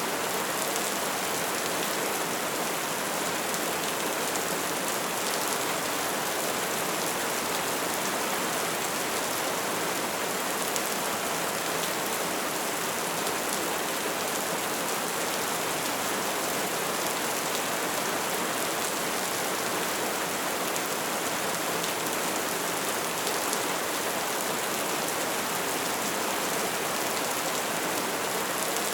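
Bonfire burning steadily: a dense crackle of small pops over the continuous rush of the flames.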